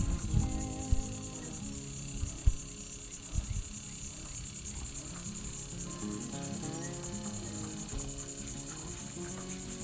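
Crickets chirring steadily in a high, finely pulsing drone. Lower down, honeybees from a swarm buzz about, their hum sliding up and down in pitch as they fly past. There are a few soft knocks near the start.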